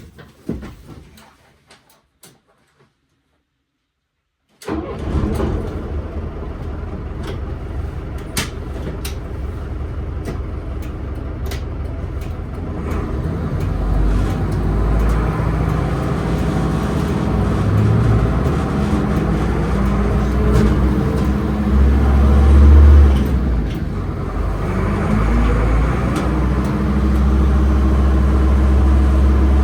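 Diesel engine of a 1988 Mercedes-Benz 811D fire truck running, with a low rumble and scattered clicks and rattles. The rumble grows heavier partway through and is loudest a little before the end. It is preceded by a few seconds of silence at the start.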